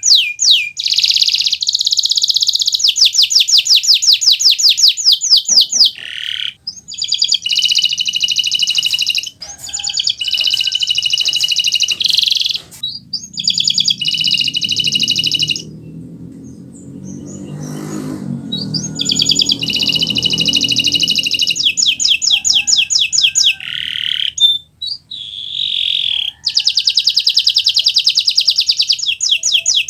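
Kenari Nusantara canary singing loudly in long phrases of fast repeated trills and rolls, with short breaks. A pause of a few seconds near the middle holds a low rumbling noise.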